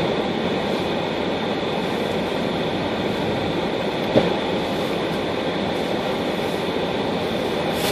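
Car driving on a snowy road: steady engine and road noise, with one short click about four seconds in.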